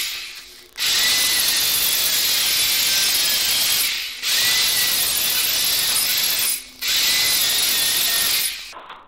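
An electric power tool running in three bursts of about two to three seconds each, each one winding down before the next starts.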